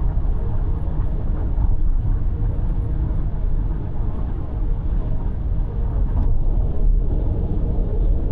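A car on the move: a steady, low rumble of road and engine noise, with no change through the stretch.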